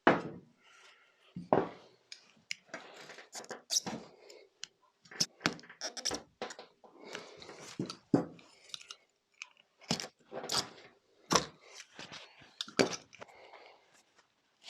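An old, split rubber footrest cover being cut and pulled off a motorcycle footrest peg: a string of irregular crunching clicks and snips as the rubber is cut and worked free.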